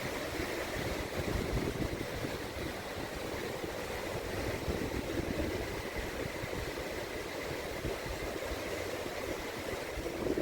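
Wind buffeting the microphone over the steady wash of small waves on a shallow sandy beach: a constant, gusting low rumble with a hiss of surf above it.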